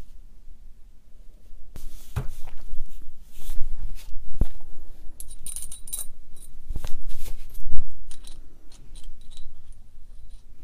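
Small metal rotary-hammer parts being handled during reassembly: scattered clicks and knocks, with a brief metallic jingle about five to six seconds in.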